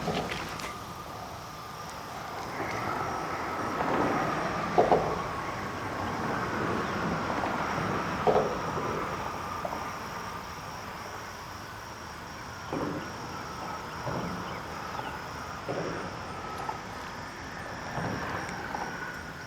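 Road traffic noise, a steady hum that swells and fades as vehicles pass, with a faint high, steady insect drone over it. A few short knocks come now and then.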